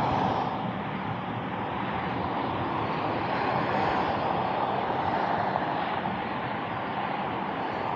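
Steady roar of Autobahn traffic, swelling and easing gently as vehicles pass.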